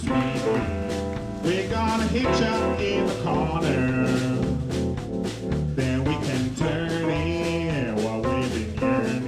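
Live blues band playing an instrumental passage: bass, drums and keys under a lead line with notes that bend up and down.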